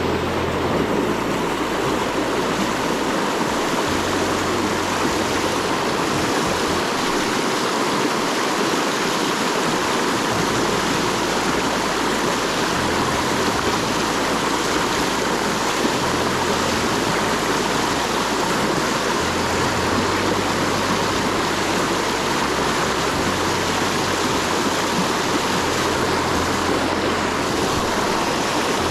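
Steady rush of water pouring over a dam spillway, a constant even roar with an uneven low rumble underneath.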